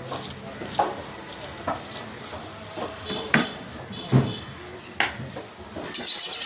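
Kitchen utensils and pots clattering: a handful of separate knocks and clinks, one ringing briefly like metal, with denser clinking near the end.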